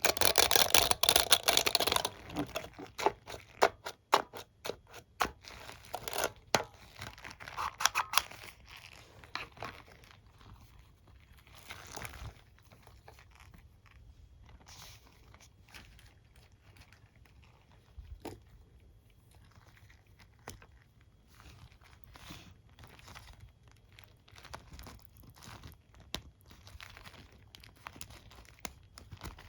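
Hairbrush bristles being touched and scratched, crackling: a dense run of loud scratches for the first two seconds, then sparser scratches and clicks that grow fainter.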